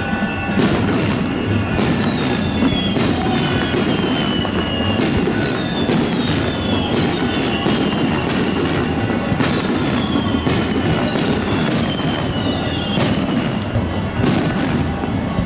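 Aerial fireworks bursting: an uneven run of sharp bangs, about one or two a second, with short whistles that fall in pitch between them.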